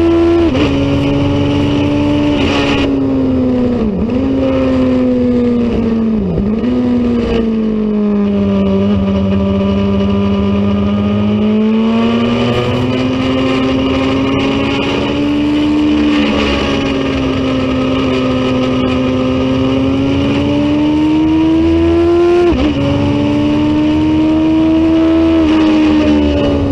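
Racing motorcycle engine running hard at high revs. Its pitch dips sharply twice about 4 and 6.5 seconds in, sinks and then climbs slowly under acceleration, and drops suddenly once more after about 22 seconds, as with gear changes.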